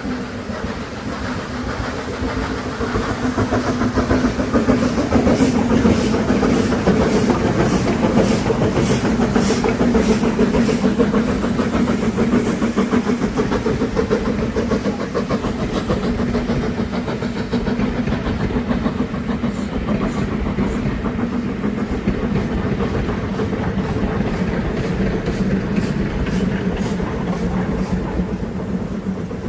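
Double-headed train behind BR Standard 4-6-0 No. 75078 and 2-6-0 No. 78022 running past, with a steady mechanical hum that is loudest about five seconds in. Two spells of evenly spaced clicks from the wheels over rail joints come early and again near the end.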